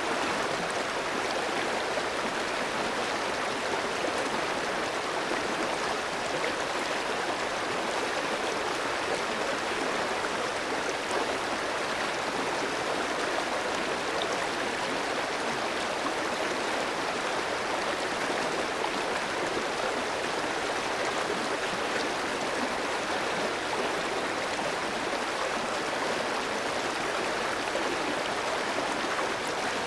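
A clear mountain stream running over rocks: a steady, even rush of flowing water.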